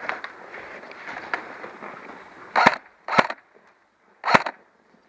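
Three single shots from an airsoft gun, the second about half a second after the first and the third about a second later, following a couple of seconds of steady rustling noise with small clicks.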